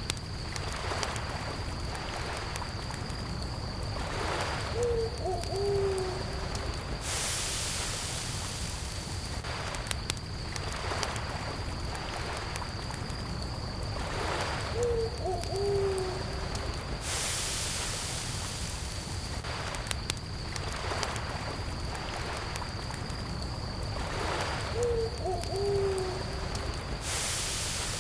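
Nature ambience mix of a crackling campfire, gentle lake waves washing in about every ten seconds, and a steady cricket trill. Over it an owl hoots three times, about ten seconds apart.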